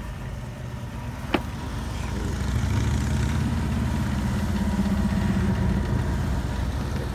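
1989 Oldsmobile Cutlass Ciera engine idling steadily, growing louder a couple of seconds in as the open engine bay comes close, with no whine from the power steering pump. A single sharp click sounds about a second and a half in.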